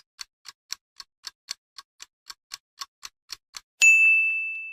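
Quiz countdown-timer sound effect: clock ticking about four times a second, then a single bright ding near the end that fades slowly, marking time up.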